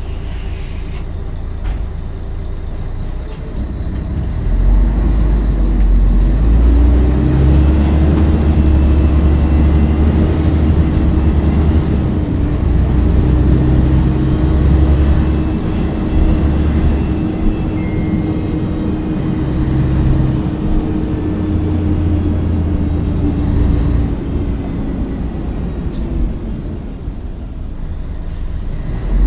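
Scania L113CRL bus's 11-litre six-cylinder diesel engine pulling under load. The engine gets louder about four seconds in and holds, with a steady whine over it, then eases off in the last few seconds.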